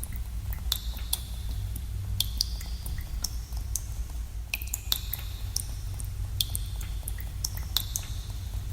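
Water drops falling in a cave, irregular and several a second, each a sharp high plink with a short ringing tail. Underneath is a steady low rumble.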